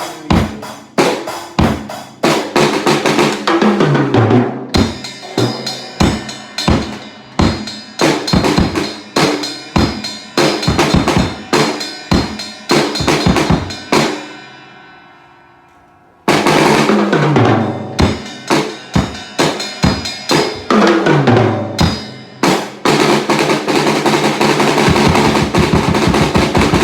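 Drum kit played in a steady beat of kick, snare and cymbals. About halfway through the playing stops on a hit left to ring and fade, and the beat starts again about two seconds later.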